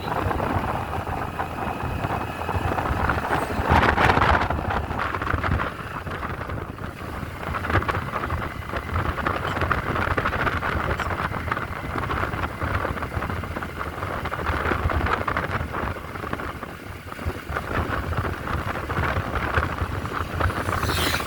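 Wind rushing over the microphone on a moving motorcycle, over steady engine and road rumble, with a louder gust about four seconds in.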